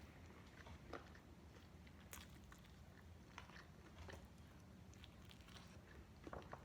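Faint chewing of fried chicken, with scattered soft crunches.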